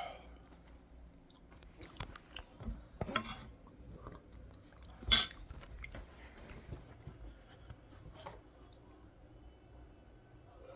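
A few scattered clinks and knocks of dishes and cutlery, the loudest a sharp knock about five seconds in, with faint chewing between them.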